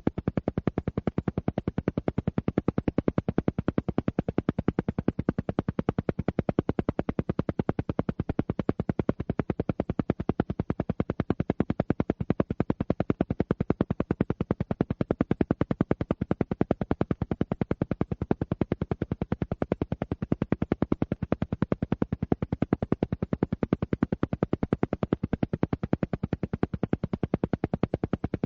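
Alpha-wave brainwave-entrainment track: a steady train of rapid, evenly spaced pulses, many per second, with most of the sound low in pitch and no change in rate or loudness.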